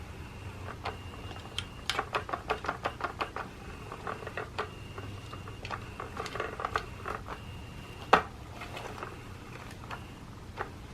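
Motorized undercover-mouse cat toy running, its motor giving a faint high whine that comes and goes over a low hum, with runs of quick clicks and taps and one sharp loud tap about eight seconds in.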